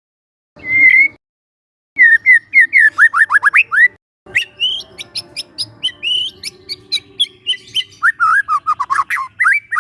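Young white-rumped shama (murai batu) singing: a single short whistle, then a quick run of downslurred whistled notes, then a varied run of whistles mixed with sharp clicking notes.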